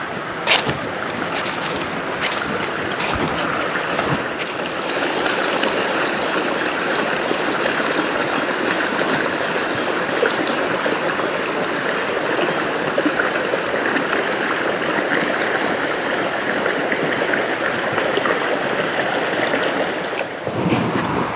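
Steady rushing of a rainforest river and small waterfall, with a couple of sharp clicks about half a second in.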